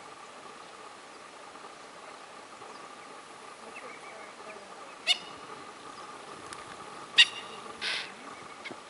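Impala alarm snorts: three short, sharp calls, the first about five seconds in, the second about two seconds later and loudest, then a breathier one right after. They warn the herd and signal to a nearby lioness that she has been seen.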